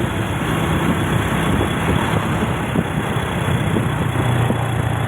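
A road vehicle's engine running steadily on the move, under a constant noisy hiss of travel.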